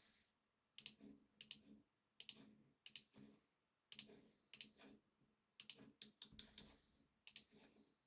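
Faint clicks of a computer mouse and keyboard, about ten short clicks that often come in quick pairs, spaced irregularly.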